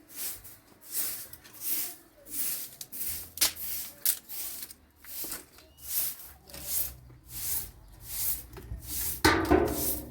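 Regular rasping strokes, about one every 0.7 seconds, like something being rubbed or scraped back and forth. A low steady hum joins about three seconds in, and a louder, fuller burst comes near the end.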